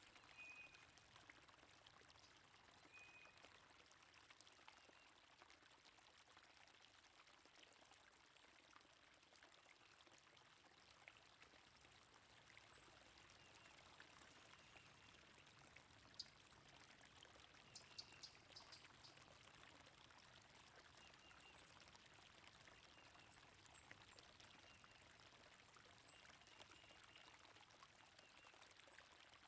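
Faint, steady flow of running water, with short, high bird chirps now and then and a small cluster of them about halfway through.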